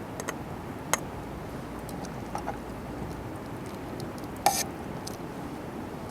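Wood campfire crackling: a steady low rush broken by a few sharp pops, the loudest about four and a half seconds in.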